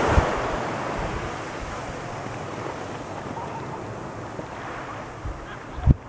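Ocean surf: the broad hiss of a wave's wash, loudest at first and slowly fading. Near the end a gust of wind buffets the microphone.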